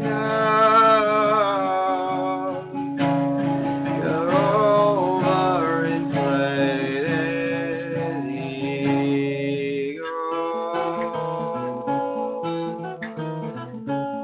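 Acoustic guitar playing an instrumental passage: strummed chords ring for the first ten seconds or so, then give way to single picked notes.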